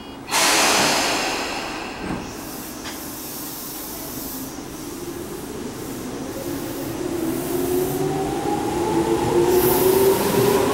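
A Tobu six-car electric commuter train pulling out of a station. A sudden loud hiss of air fades over a couple of seconds, and there is a thump about two seconds in. Then the traction motors' whine rises steadily in pitch as the train gathers speed and the cars roll past.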